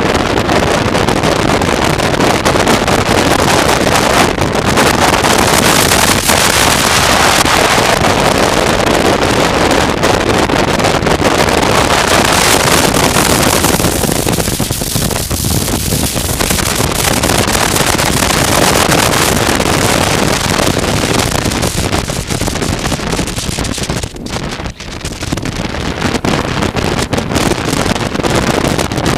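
Wind rushing over the microphone of a moving motorcycle, a loud, dense, steady roar of air and road noise that eases briefly about halfway through and again near the end.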